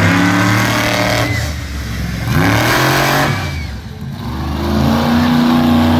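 Monster truck engine revving hard in three surges, the pitch climbing and falling between them as the throttle is worked.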